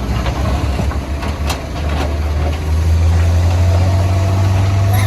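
Heavy diesel engine running at a steady low note, getting louder about two and a half seconds in. A couple of short knocks come earlier on.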